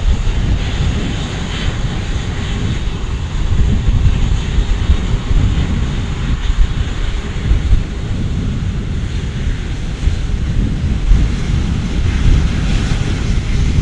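Aircraft engines running loud, a steady rumble heaviest in the low end, as a plane moves on the airfield.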